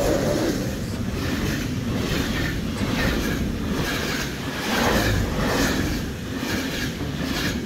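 Electric locomotive-hauled passenger train passing close at speed, its coaches' wheels clicking over the rail joints about twice a second under a steady rumble.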